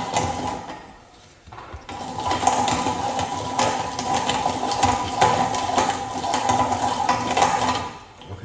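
Manual meat grinder being cranked, a steady rattling run of metal-and-plastic clicks. It stops briefly about a second in, resumes, and tails off near the end.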